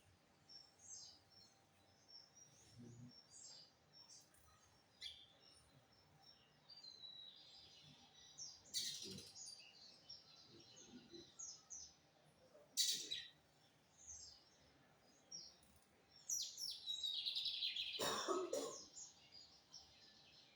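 Lined seedeater (bigodinho) calling and singing: scattered short high chirps, a couple of sharp louder notes, and a dense run of rapid notes near the end.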